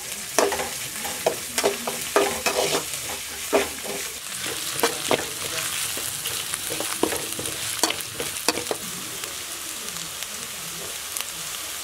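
Chopped onions with crushed ginger and garlic sizzling in oil in a metal kadai, stirred with a metal spatula that clicks and scrapes against the pan again and again. The ginger and garlic are being fried until their raw smell goes.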